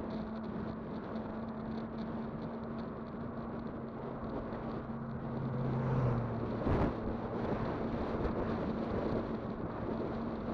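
Electric bike riding along: a steady motor whine over tyre and wind noise, with a lower hum joining for a couple of seconds in the middle and a single sharp knock about seven seconds in.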